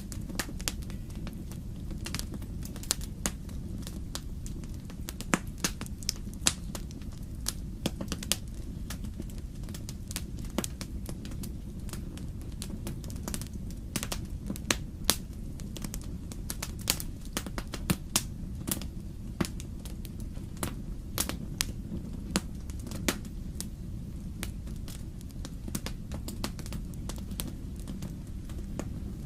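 Wood fire crackling in a fireplace: irregular sharp pops and snaps of burning logs over a steady low rumble of the flames.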